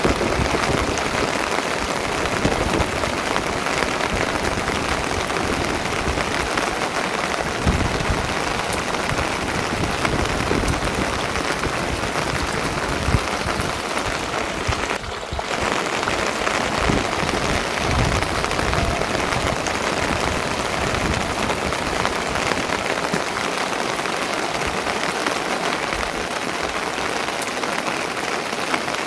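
Steady rain falling without a break, with a brief dip about halfway through.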